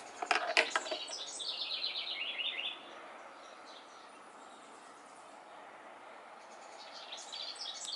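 A small bird gives a rapid run of high chirps, falling slightly in pitch and lasting about a second and a half, over steady outdoor background noise. A few brief rustles of dry nest twigs come near the start.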